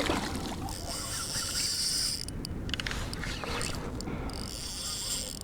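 Fishing reel ratcheting and buzzing as a red drum is fought on the line, in two long stretches: one starting about a second in, the other near the end, with a few clicks between them.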